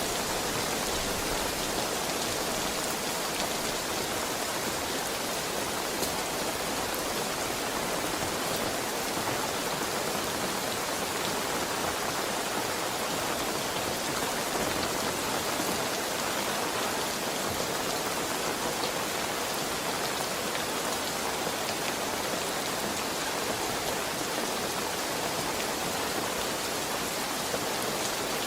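Heavy rain falling steadily on surfaces, with a few faint separate drop ticks.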